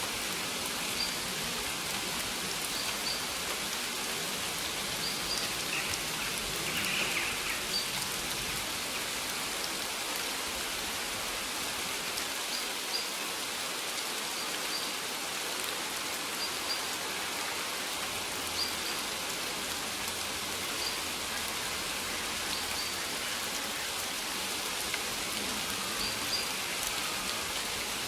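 Steady rain falling, an even hiss of drops on surfaces, with faint short high chirps or ticks recurring every second or two.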